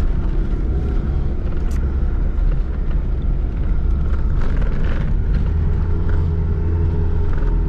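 Zastava Yugo's small four-cylinder petrol engine running steadily, heard from inside the cabin with a deep rumble, with a few thumps and rattles from the car jolting over a rough dirt track, about two seconds in and again around the middle.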